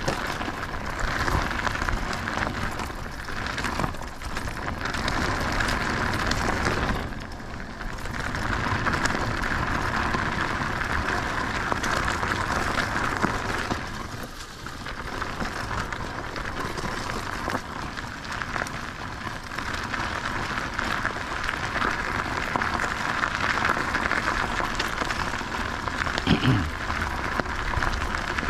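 Steady rushing noise of riding a bicycle: wind over the camera's microphone and tyre noise, with the level dipping briefly twice. There is a short rising squeak near the end.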